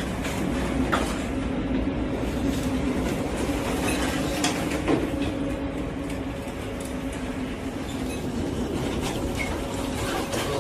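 Steady low machinery hum aboard a ship, with scattered knocks and rattles over a rushing background.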